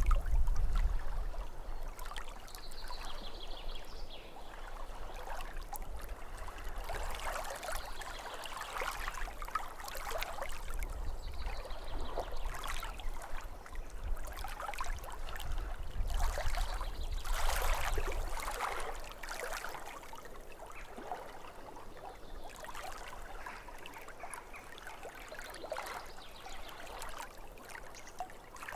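Lake water lapping at the shore in irregular surges of splashing, with a low rumble underneath that fades out about two thirds of the way through.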